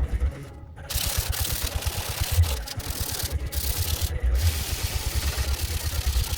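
Hand sanding of car-body sheet metal: a steady scratchy hiss that starts about a second in and breaks off briefly a few times, over background music with a steady beat.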